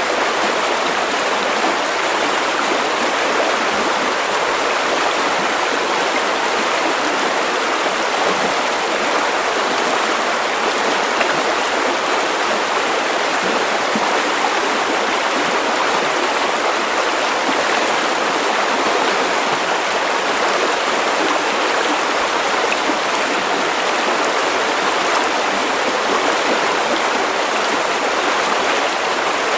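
River water running over stones, a steady rushing and babbling flow without breaks.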